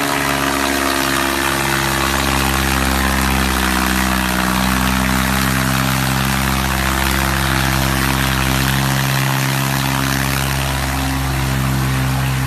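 Modified New Holland tractor's diesel engine running steadily at a constant speed.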